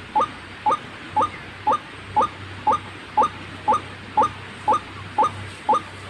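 White-breasted waterhen calling: a short rising note, repeated at a very even pace of about two a second.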